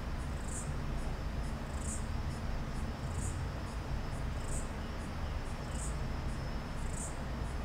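High, insect-like chirps repeating about once every second and a quarter, like a cricket, over a steady low hum.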